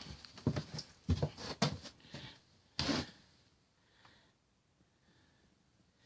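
A run of short knocks and clunks over the first three seconds, as of hard objects being handled, then only faint room sound.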